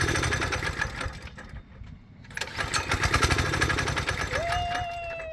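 Vehicle engine revving in two long surges under throttle, easing off about two seconds in. Near the end a long whine begins, falling slowly in pitch.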